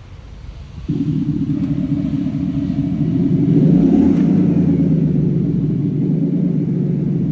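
iXsound active electronic exhaust speaker on a GAC GS8 playing a synthesized Mustang exhaust note: a low rumble that starts abruptly about a second in, swells with a short rev around four seconds in, then settles to a steady rumble.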